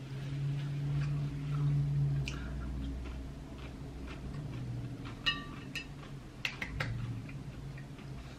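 A closed-mouth 'mmm' hum lasting about two seconds while chewing a mouthful. A little after five seconds in, a fork clinks down onto the plate with a brief ring, followed by a few lighter taps.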